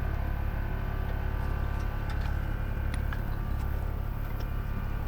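Heavy-duty diesel wrecker engine idling steadily, with a few light clicks and knocks about two to four seconds in.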